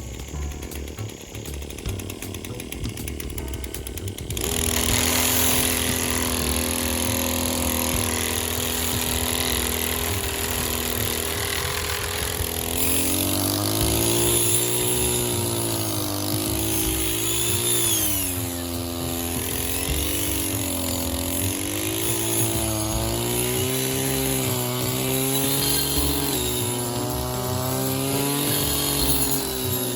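A small engine running continuously, its pitch wavering up and down. It starts abruptly about four seconds in, after a few seconds of music.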